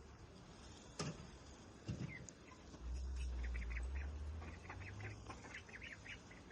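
Ducks quacking in a rapid run of short calls through the second half, with two sharp knocks about one and two seconds in.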